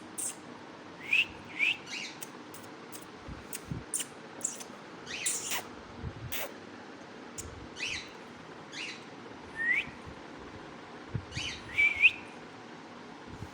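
A parrot giving short, scattered chirps and rising whistles, about a dozen calls with sharp clicks in between, the loudest near the end.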